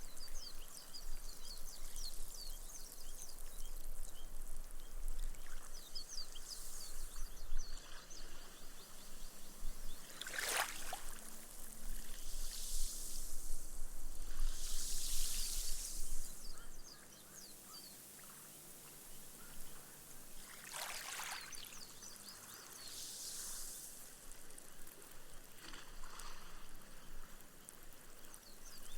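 Small, gentle waves washing up a sand beach. A short surge comes about every ten seconds, and between them the foam fizzes and crackles as the water soaks into the sand.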